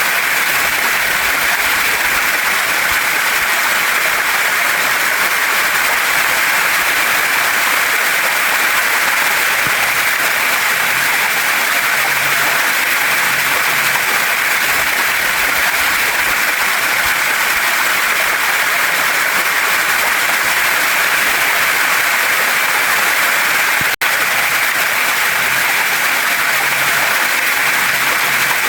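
Waterfall and stream water rushing over rocks: a steady, even hiss, with a split-second dropout near the end.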